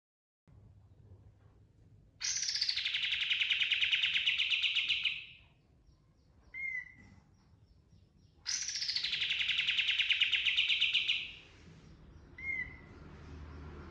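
Kapas tembak (katem) bulbul singing: two rapid rolling trills of about three seconds each, each opening with a high downward sweep, and a short single note after each trill.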